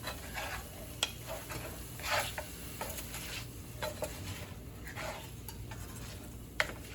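Chicken frying in olive oil in a pan, sizzling, while a spoon stirs and scrapes it in irregular strokes. Two sharp clicks, about a second in and near the end.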